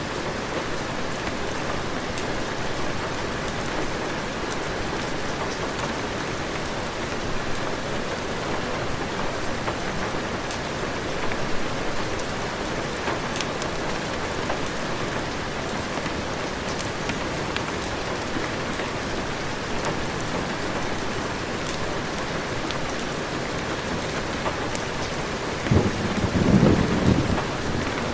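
Heavy rain falling steadily, with a sudden clap of thunder near the end.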